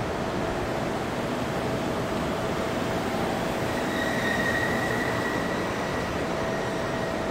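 Steady rumbling noise of a freight train running out of sight, with a faint steady hum throughout and a high, thin squeal from about four seconds in that lasts about three seconds.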